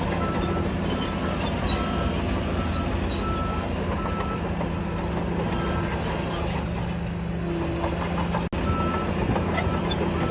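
Heavy diesel earthmoving machinery running steadily while a reversing alarm sounds a regular series of short high beeps. The sound drops out for an instant about eight and a half seconds in.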